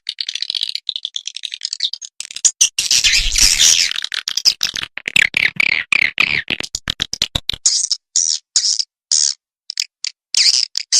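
Swiftlet calls from a lure recording used to draw swiftlets into a nest house: dense, rapid high twittering and clicking chirps, thinning out about seven and a half seconds in to a series of short separate high chirps.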